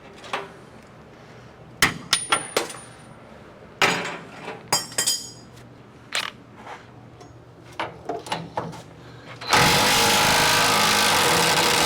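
Scattered metal clinks and clanks of tools and parts being handled, then about nine and a half seconds in a power tool starts up and runs loud and steady.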